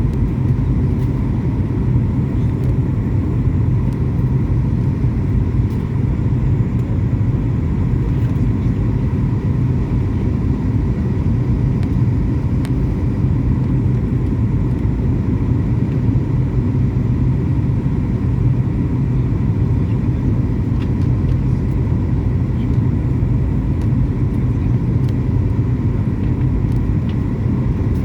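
Steady, unbroken rumble of airliner cabin noise from the engines and airflow, heavy in the low end, with a faint steady whine on top.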